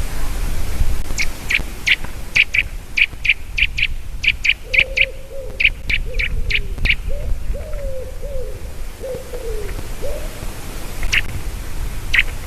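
Eaglet calling from nearby: a rapid series of about twenty short, high, sharp notes, often in pairs, over about six seconds, with two more single notes near the end. Lower wavering, sliding calls from another bird overlap the middle of the series, over a steady background hiss.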